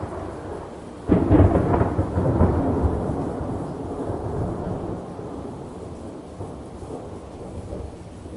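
A thunderclap: a sudden crack about a second in that rolls into a rumble and fades over several seconds, over a steady rain-like hiss.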